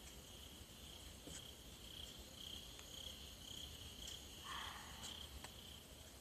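Crickets chirping faintly in a steady, evenly pulsing high trill. A short mid-pitched sound stands out once, about four and a half seconds in.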